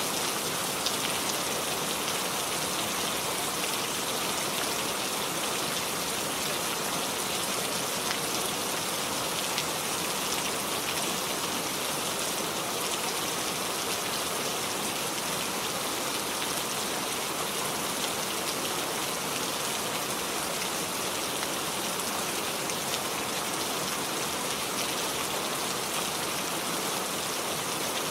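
Steady rainfall: an even hiss of rain with many small drops ticking on surfaces.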